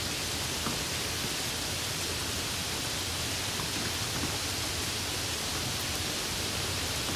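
Steady tropical rain falling, a dense even hiss with faint scattered drop ticks.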